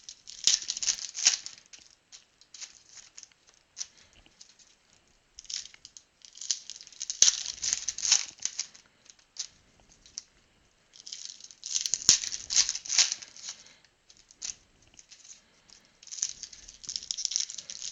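Trading card box and pack wrapping being torn open and crinkled by hand, in four bursts of tearing and crinkling.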